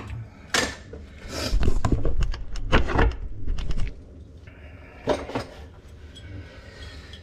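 Irregular knocks and metallic clanks of hand tools and parts being handled under a kitchen sink during a garbage disposal install, several in the first few seconds and a couple more about five seconds in.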